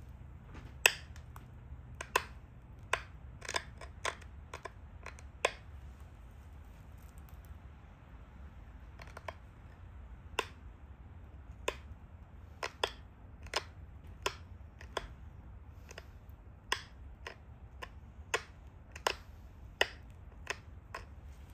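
Pressure flaking a stone Dalton point at its base: a series of sharp clicks as small flakes snap off, irregularly spaced about a second apart, with a pause of about three seconds a third of the way through.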